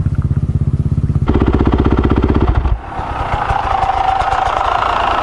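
Beta 300RR's single-cylinder two-stroke engine running under throttle with a fast, even beat, pulling harder about a second in. The throttle is shut near three seconds, after which a softer, steadier engine sound carries on.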